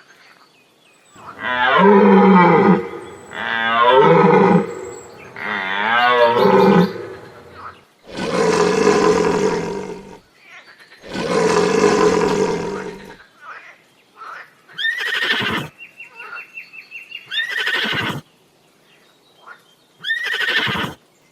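A series of animal calls: three loud wavering calls, then two longer, harsher calls, then three short calls that drop sharply in pitch.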